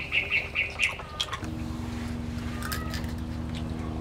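A bird's rapid, evenly repeated chirping that stops about a second in, then a steady low mechanical hum, with a few faint clicks.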